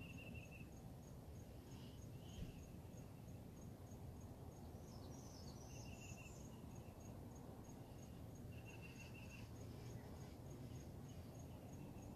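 Faint outdoor insect chirping: a steady, even high tick about three times a second, with short trills a few times and a brief bird-like call about five seconds in, over a low steady rumble.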